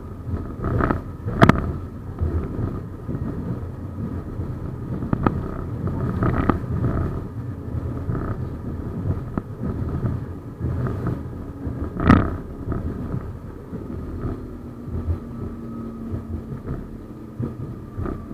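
71-931M Vityaz-M tram running along the track: a steady rumble broken by sharp knocks and clicks from the wheels on the rails, the loudest about twelve seconds in. A faint steady whine comes in near the end.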